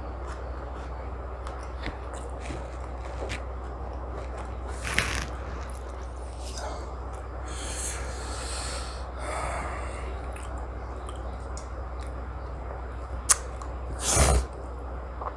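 Close-miked eating: chewing and biting with scattered small clicks and crunches over a steady low hum, a couple of softer hissing stretches in the middle, and a short louder noisy burst near the end.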